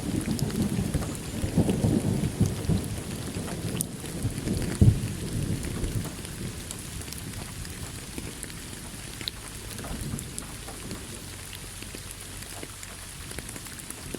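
Steady rain with thunder: a low rolling rumble that fades away over the first half, with a short swell about five seconds in, leaving rain pattering with scattered drop ticks.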